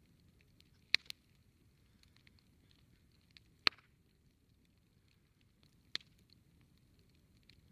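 Campfire crackling: wood snapping in sharp single pops, two close together about a second in, the loudest near the middle and another about six seconds in, over a faint low rumble of the fire.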